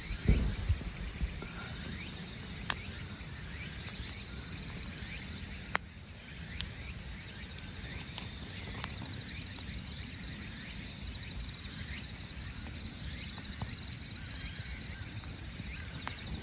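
Insects, crickets among them, trilling steadily in a high, finely pulsing chorus over a low rumble of background noise. Two sharp clicks cut through, about three and six seconds in.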